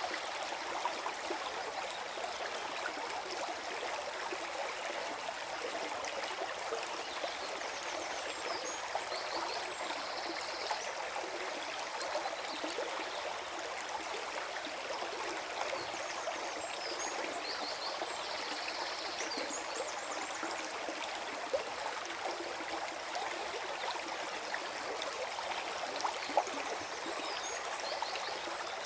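Forest stream flowing and gurgling steadily.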